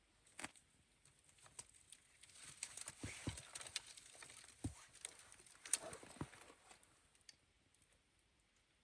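Faint rustling with scattered small clicks and knocks, busiest in the middle few seconds.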